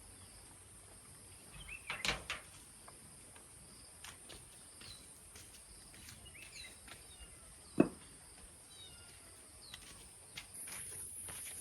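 Rural outdoor ambience: short bird chirps here and there over a steady high hiss, with a few knocks, the sharpest about eight seconds in.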